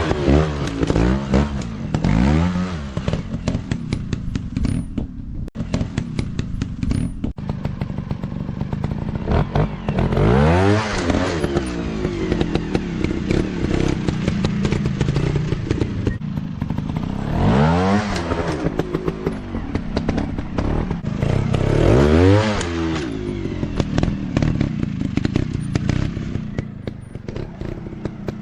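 Dirt bike engines revving hard in repeated throttle bursts, rising sharply in pitch and dropping back several times, over constant clattering and knocking.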